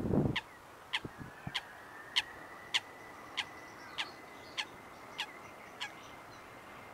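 A bird calling in a regular series of about ten short, sharp calls, roughly one every 0.6 seconds. Underneath, a faint high whine rises and then holds steady, fitting the Boeing 747-400F's engines spooling up for takeoff, and a rumble of wind on the microphone dies away about half a second in.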